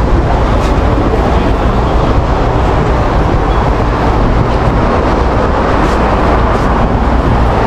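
Road traffic noise from a busy highway, a steady low rumble of passing vehicles.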